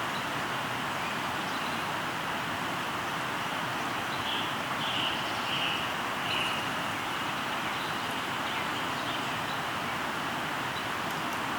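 River water flowing with a steady rush. A bird gives four short calls in the middle, and a few fainter chirps come and go.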